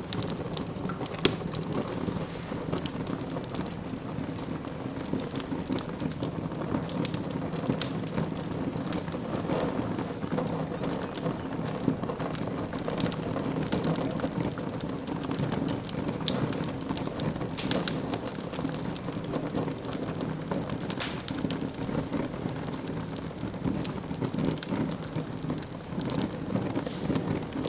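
Wood fire burning in a fireplace, crackling steadily with frequent sharp pops over a low rumble.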